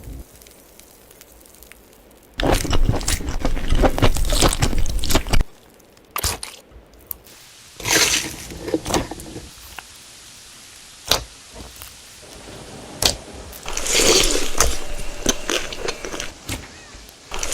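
Close-miked eating sounds: crunchy bites and chewing of food, in irregular bursts with short pauses between them.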